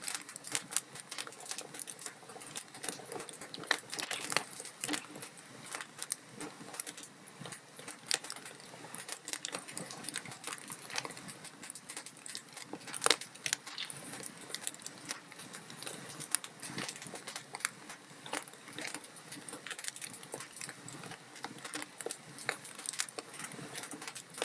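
Wood fire crackling and popping in a fireplace: a steady patter of sharp, irregular snaps over a soft hiss, with a few louder pops, one of the loudest about thirteen seconds in.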